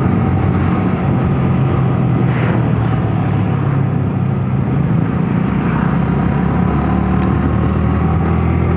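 Motorcycle engine running steadily at an even cruising speed, under a constant rush of wind and road noise.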